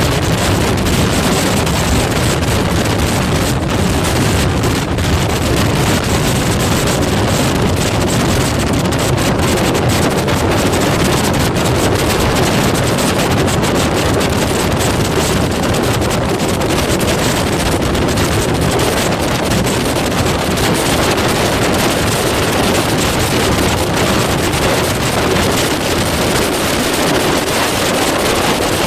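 Loud, steady wind buffeting the microphone over the constant rumble of a moving vehicle.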